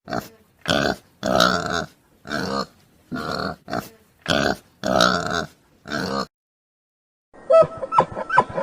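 An animal grunting in a series of about eight short, rough calls, then music starts near the end.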